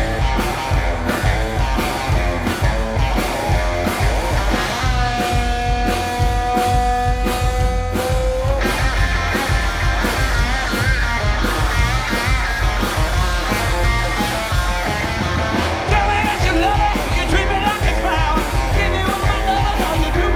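Live rock and roll band playing loudly, with a steady drum beat and electric guitar. A long held note rings out from about five seconds in to about eight seconds in.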